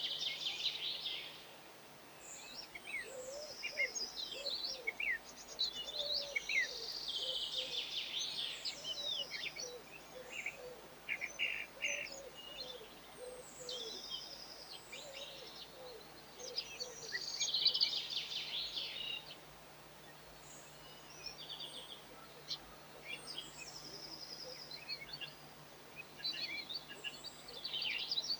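Small songbirds chirping and twittering in bursts of quick high notes, with short pauses between the bursts.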